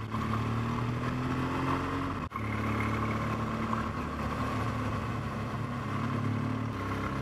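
BMW R1200GS boxer twin engine running steadily at road speed, with wind rushing past. The sound cuts out for an instant about two seconds in.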